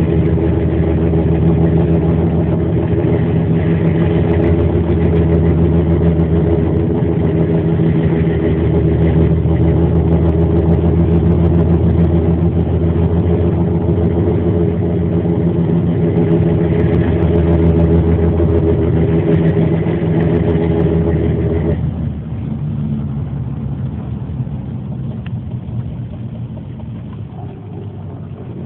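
Car driving through snow on chained tyres, heard from inside the cabin: a steady engine and road drone. About 22 s in, the engine note drops and the sound grows quieter as the car eases off.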